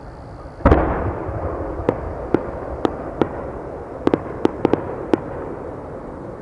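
Large 10-go (shakudama) fireworks shell bursting overhead: a heavy double boom under a second in, with a long rolling rumble after it. A string of sharp, separate pops and cracks follows for the next few seconds.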